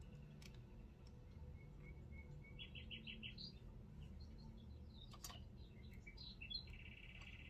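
Faint bird chirps and short rapid trills over quiet room tone, with a few small clicks, the sharpest about five seconds in.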